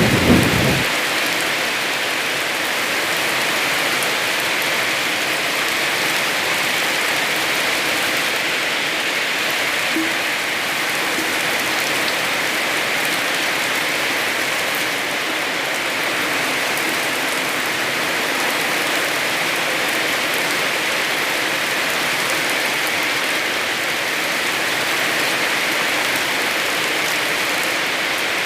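Heavy rain falling steadily in an even hiss. The tail of a thunder rumble dies away in the first second.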